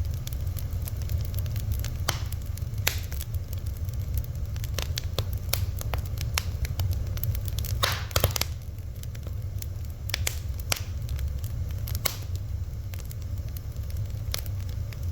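Fire crackling, with irregular sharp pops and snaps and a quick cluster of them about eight seconds in, over a steady low rumble.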